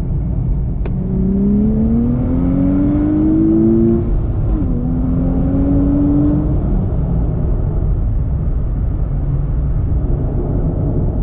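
Nissan Z's twin-turbo V6 accelerating hard: the engine note climbs for about three seconds, drops at an upshift about four and a half seconds in, climbs again, then settles into a steady drone over heavy low rumble.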